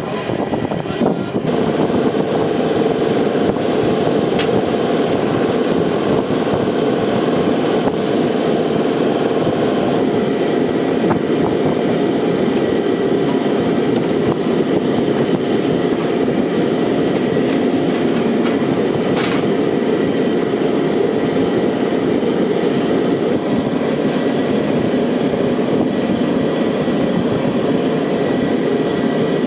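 Military jet engines running steadily: an even, loud rumble with a steady high whine above it, holding without a rise or fall.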